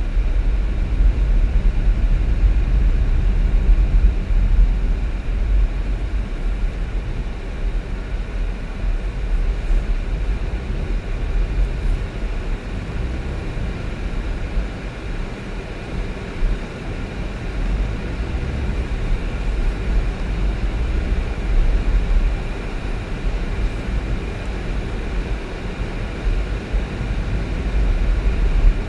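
Steady low rumble of a moving vehicle, road and engine noise running on without change.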